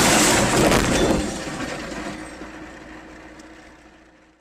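Vehicle collision: a loud crunching, shattering noise with breaking glass, dying away over about three seconds.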